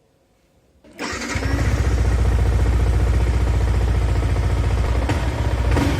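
Yamaha R15 V3's single-cylinder engine starting about a second in, then idling with a steady, rapid low pulse; two brief louder spikes come near the end.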